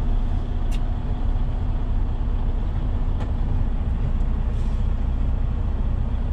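Semi truck's diesel engine running at low revs, a steady low rumble heard inside the cab. A sharp click comes about 0.7 s in.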